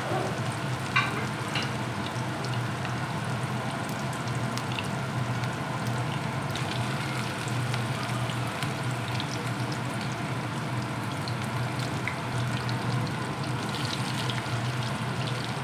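Mutton seekh kababs frying in oil in a pan on a low flame: a steady sizzle with scattered small crackles and pops. A low steady hum runs underneath.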